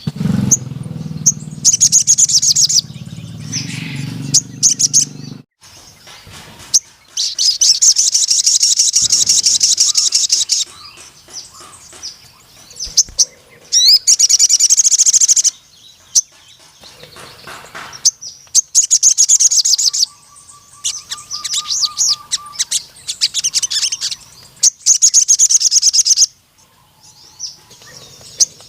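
A ruby-cheeked sunbird (sogon) singing in full song. It gives several long, rapid, high-pitched trilled bursts of about two seconds each, with short chirps between them. A low hum underlies the first few seconds.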